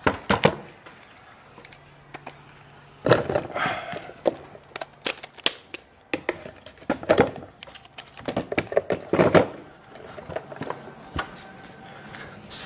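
Tools and fittings being handled and set down on a ladder-mounted work platform: bursts of knocks and clatter, several times, with pauses between.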